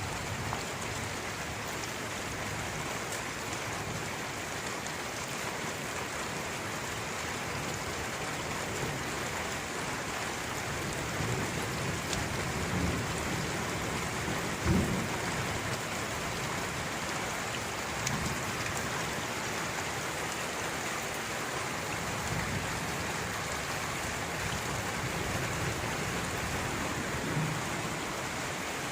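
Steady rain, an even hiss. A few brief low thuds sound through it, the loudest about halfway.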